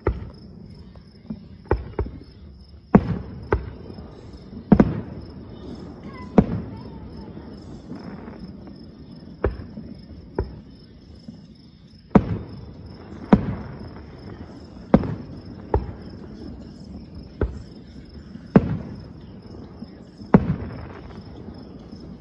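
Distant aerial fireworks shells bursting: about eighteen sharp bangs at uneven spacing, often a second or two apart, each trailing off briefly. Crickets chirp steadily underneath.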